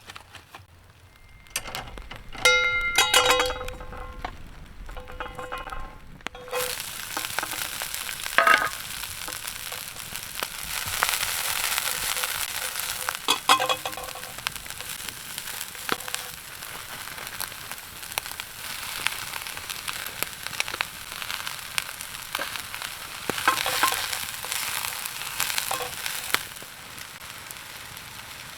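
Food frying in a hot pan: a steady sizzle starts suddenly about six seconds in and carries on with scattered pops. Before it, a few ringing metallic clinks of pan and utensils.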